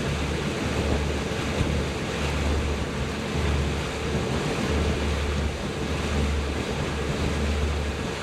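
Motorboat running steadily, with water washing past and wind buffeting the microphone in uneven low rumbles.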